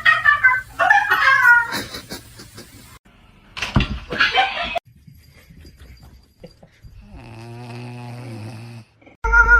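Cats meowing and yowling in several short bursts, with abrupt cuts between them.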